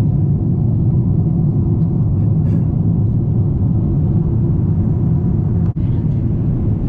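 Steady low rumble of an airliner cabin: engine and air noise, unbroken except for a brief dropout near the end.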